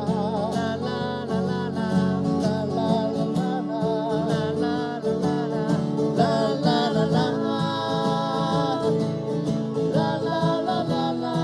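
Acoustic guitar strumming with a singing voice holding wavering, wordless notes.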